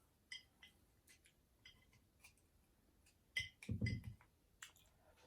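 Chopsticks clicking and tapping against a noodle bowl or cup, a series of light ringing clicks. About three and a half seconds in there is a tighter cluster of louder knocks with a duller thud.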